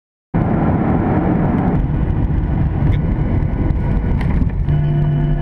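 Steady vehicle rumble, joined about five seconds in by a steady low hum.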